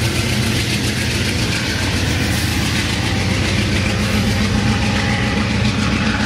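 Amtrak passenger train moving through, its GE P42DC diesel locomotive running under power with a steady, loud low engine drone over the noise of the cars on the rails.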